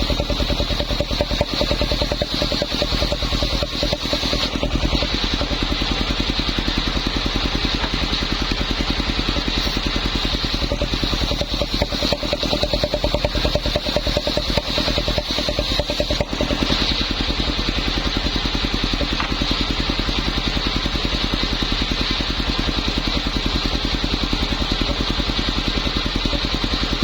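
Homemade circular saw rig running steadily, its machinery giving a rapid, even pulsing with a steady high whine.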